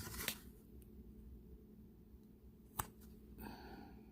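Faint, quiet handling of diamond-painting drills, with two small sharp clicks, one just after the start and one about three seconds in, as drills are picked up and pressed onto the sticky canvas.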